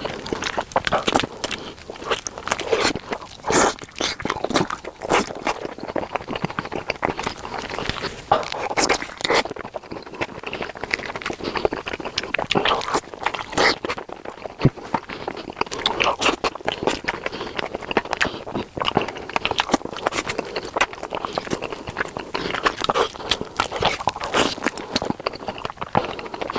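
Close-miked chewing and biting of a spicy chicken leg: a dense run of irregular wet clicks, smacks and crunches.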